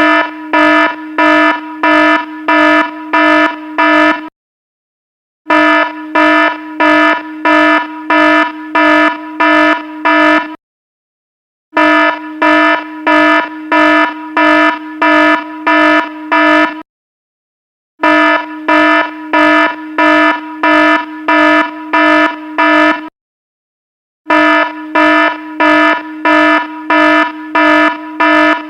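Electronic alarm buzzing in rapid pulses, about two a second, in five-second bursts separated by pauses of about a second, repeating steadily.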